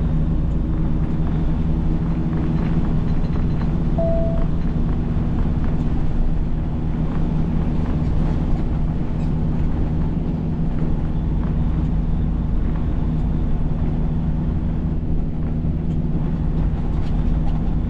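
Semi truck's diesel engine running steadily with road noise, heard from inside the cab. A short high beep sounds about four seconds in.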